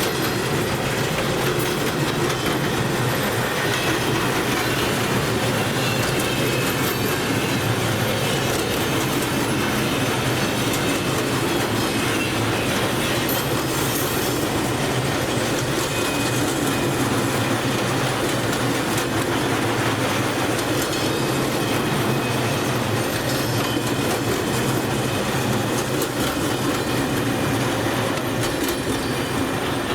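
A train's wagons rolling steadily along the track, wheels clicking over rail joints, with a faint high wheel squeal.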